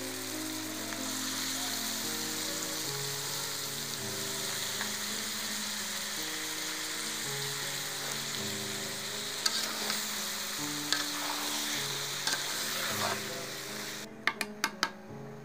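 Chunks of bottle gourd sizzling in hot oil and spice paste in a karahi as they are stirred in, with occasional small clicks of the spoon against the pan. The sizzling cuts off suddenly near the end, followed by a few sharp knocks.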